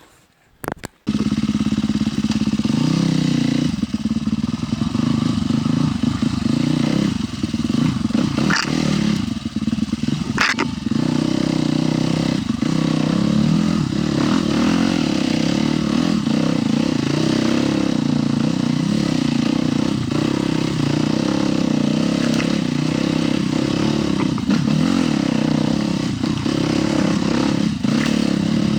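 Husqvarna TE 310 dual-sport motorcycle's single-cylinder four-stroke engine running under way, its revs rising and falling as it is ridden. The engine sound cuts in about a second in, and two sharp knocks stand out a third of the way through.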